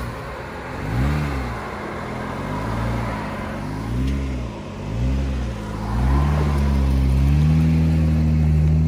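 Jeep engine revving up and down several times under throttle at low speed, then held at a steady, louder pitch from about six seconds in.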